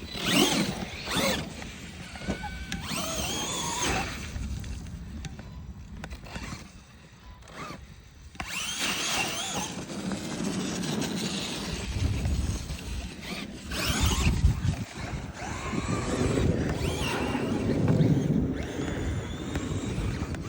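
Radio-controlled trucks running, their motors giving a high whine that rises and falls in pitch as they rev up and ease off several times, over a low rumble.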